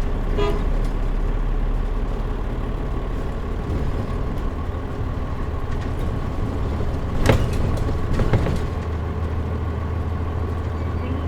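Running sound heard inside a Mitsubishi Fuso Aero Star non-step city bus (KL-MP37JM) with the air conditioning off: a steady diesel engine hum whose low note shifts about half a second in. Two sharp knocks or rattles come about seven and eight seconds in.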